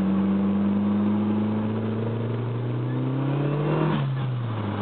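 Mercury Tracer's swapped-in turbocharged 1.8 L four-cylinder engine accelerating hard in gear, its pitch climbing steadily for about four seconds, then dropping quickly near the end at the upshift.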